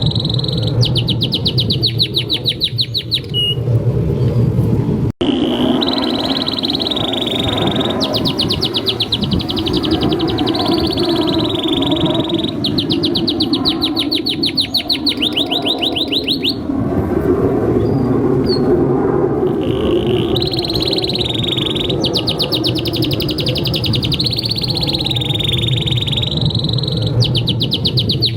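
Domestic canary singing a long, continuous song: held whistled notes alternating with fast rattling trills, phrase after phrase, over a steady low background noise. The sound cuts out for an instant about five seconds in.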